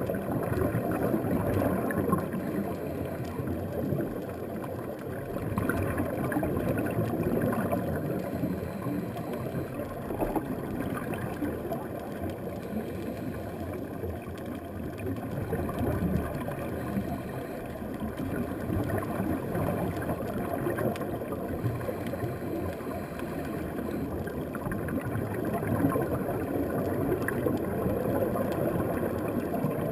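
Muffled underwater noise picked up through a camera housing at about 10–15 feet: a low rumbling with bubbling and gurgling that swells and fades every few seconds, typical of a scuba diver's exhaled bubbles from the regulator.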